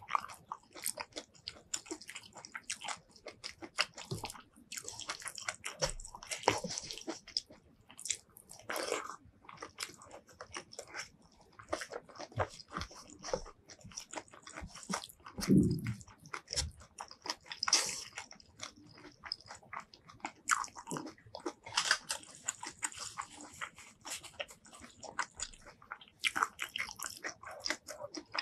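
Close-miked eating sounds: irregular crunchy chewing and wet mouth clicks as rice with fried roselle leaves, bamboo shoots and fried dry chilli is eaten by hand. About halfway through there is one brief, low sound that falls in pitch.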